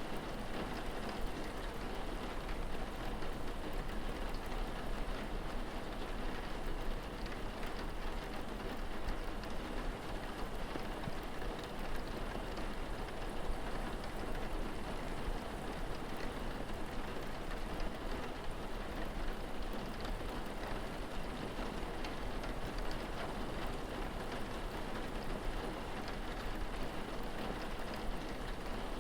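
Steady rain falling, with a dense patter of drops hitting surfaces and a low rumble beneath.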